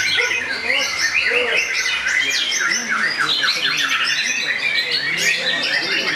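Many caged songbirds singing at once in dense, overlapping fast trills and chirps, with a long rapid trill sliding down in pitch near the end.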